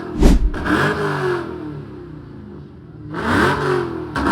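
A car engine being revved, its pitch climbing and falling back twice, with a sharp loud thump shortly after the start.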